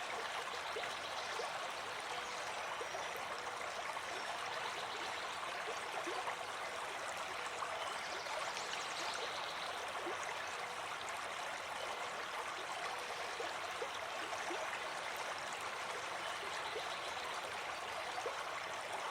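Water running steadily over rocks in a stream, an even rushing wash with small splashes and gurgles.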